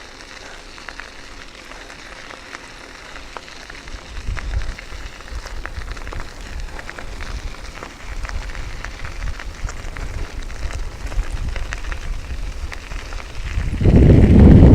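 Strong wind buffeting the microphone in gusts, over a steady crackling hiss, with a much louder blast of wind about a second before the end.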